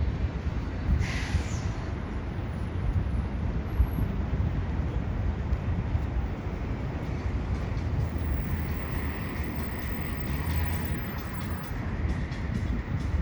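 Downtown city street ambience: a steady rumble of traffic, with a short high-pitched squeal about a second in.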